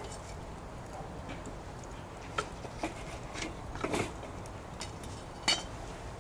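Wood fire crackling, with sharp pops and snaps scattered irregularly over a low steady background; the loudest pop comes about five and a half seconds in.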